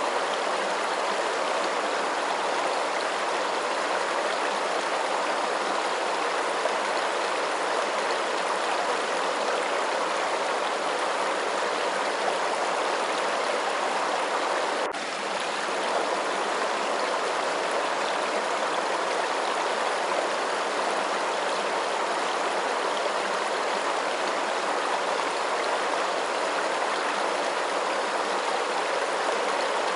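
Running water rushing steadily, like a stream, with one brief dip in level about halfway through.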